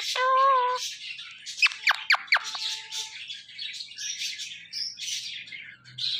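Indian ringneck parakeet calling: a short pitched call at the start, then a few quick, sharply falling whistles about two seconds in, followed by steady high chattering squawks.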